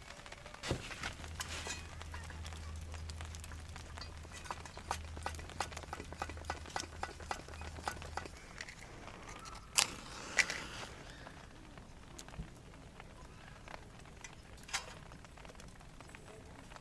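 Wood campfire crackling, with many small irregular pops and a few sharper cracks in the second half. A low steady hum runs underneath for roughly the first half, then stops.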